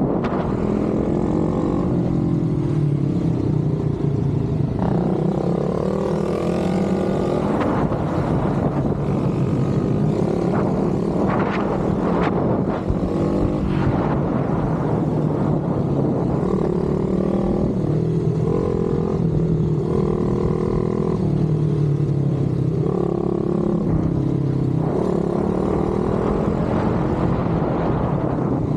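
Pit bike's small single-cylinder engine running hard and revving, its pitch climbing and dropping again and again as it shifts gears and brakes for corners.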